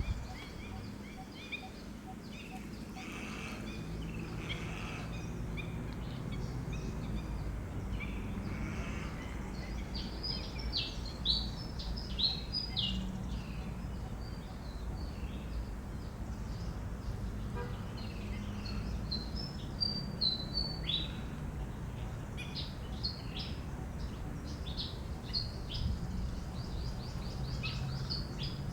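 Birds chirping: many short, high calls in quick runs, busier from about a third of the way in, over a steady low background rumble.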